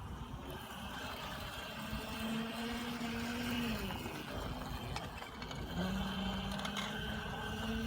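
Children's battery-powered ride-on motorcycle running: a rough gear-motor whirr with a steady low whine twice, once about two seconds in for a second and a half, then again from about six seconds on.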